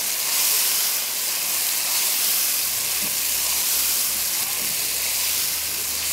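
Spiced meat frying in a wok, a steady sizzle and hiss as it is stirred and turned with a spatula. The masala is at the bhuna stage, its water starting to cook off.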